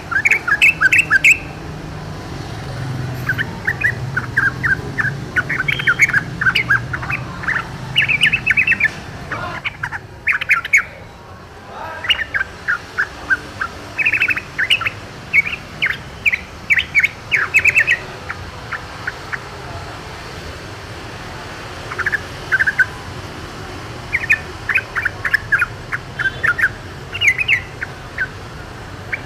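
Yellow-vented bulbul (trucukan) singing in the wild: short phrases of quick notes, repeated with pauses of a few seconds between them. A low rumble lies underneath for the first third.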